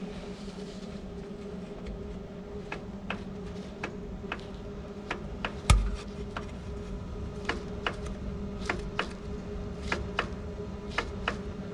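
Light metallic clicks and taps at irregular intervals, with one heavier knock about six seconds in, over a steady low hum: hand work with tools and parts on a truck transmission.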